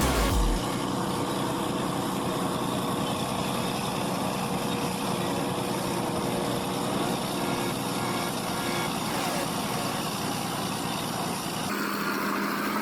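Diesel engine of heavy earthmoving machinery running steadily, with a rough, even noise and a faint steady tone; the sound changes character near the end.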